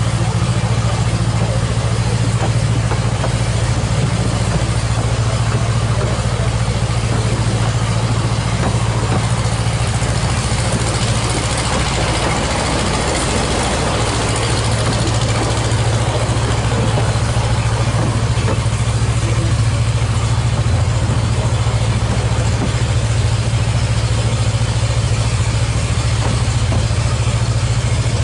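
A 2 ft gauge narrow-gauge train running, heard from an open passenger carriage: a steady low hum with wheel-and-rail rumble and no clear beat.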